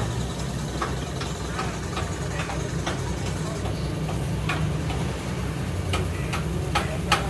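A steady low motor hum with light, irregular ticks and taps over it, a few sharper ones near the end.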